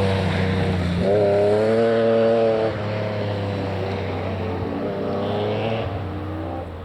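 Rally car engine revving hard and pulling through a gear change as it accelerates away. The level drops after about three seconds, and a fainter rise in revs follows near the end.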